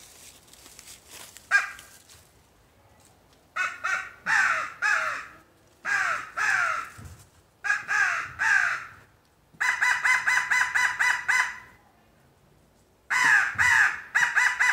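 All-wood M.L. Walker crow call with cocobolo wood nibs being blown, giving loud caws. First come several pairs of drawn-out caws, then fast runs of short, clipped caws.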